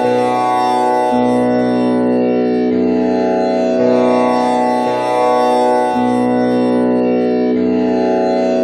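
Tanpura drone tuned to B with the first string set to komal ni (flat seventh): its strings are plucked one after another in a steady repeating cycle, each note ringing on with dense overtones, a new pluck every second or so.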